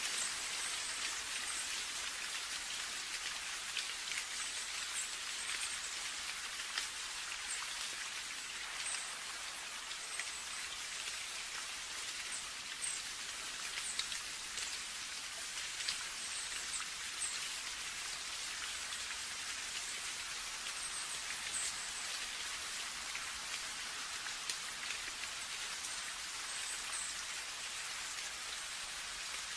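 Steady rain: an even hiss with many scattered, sharp individual drop ticks throughout.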